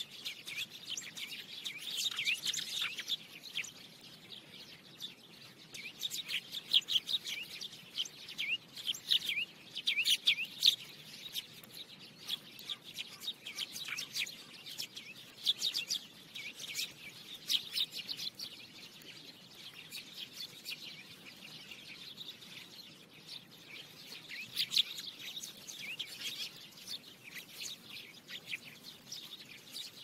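Small birds chirping, with many short high chirps in quick runs throughout.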